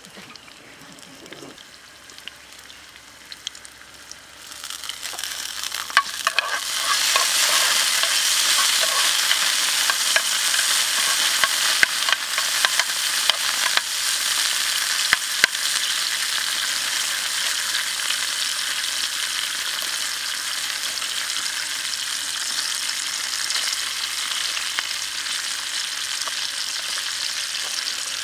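Garlic, shallots and chili frying in hot oil in a pan over a wood fire: a steady sizzle that is faint at first and swells to loud about five to seven seconds in, with scattered sharp pops of spattering oil. A spoon stirs through the frying food.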